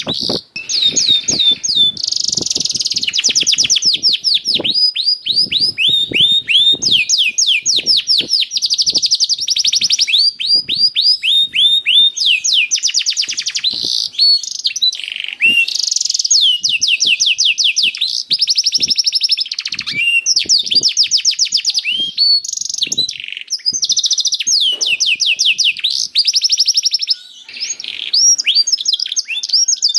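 Domestic canary singing a long, nearly unbroken song of fast trills, each made of quickly repeated falling notes, changing from one trill to the next with a brief pause near the end.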